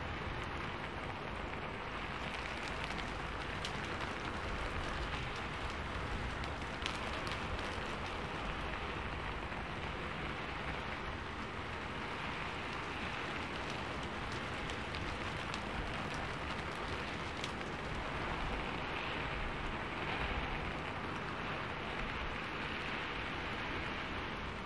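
Steady rain falling: an even hiss of many drops, with now and then a sharper single drip standing out.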